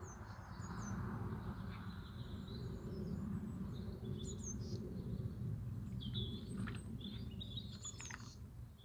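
Small birds chirping and singing in short repeated phrases over a steady low rumble.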